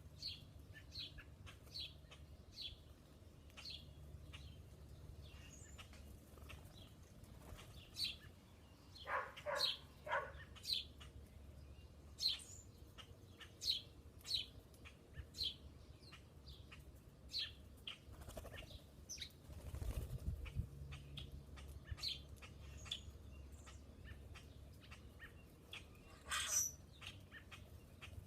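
Small songbirds chirping at a feeder: short, high chirps repeated all through, sometimes several a second. A harsher, rattling call comes about nine seconds in, and a low rumble rises and fades about twenty seconds in.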